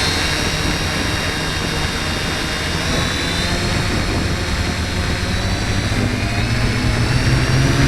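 H-frame quadcopter's electric motors and propellers running steadily at speed: a high whine over a rush of propeller noise, shifting slightly in pitch now and then. It carries the propeller buzz that the owner is asking about.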